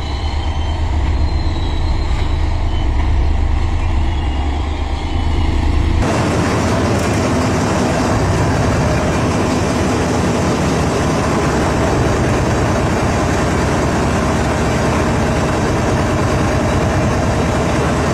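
Diesel locomotive engine running with a steady low drone as the goods train approaches. About six seconds in, a cut to a louder, even rushing noise of the moving train, heard from aboard a wagon.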